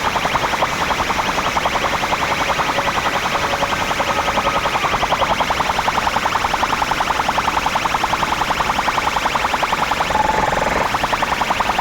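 A DJ sound system loudly playing a competition-style electronic horn track: a rapid, even pulsing of high-pitched synthesized tones. A short held tone cuts in near the end.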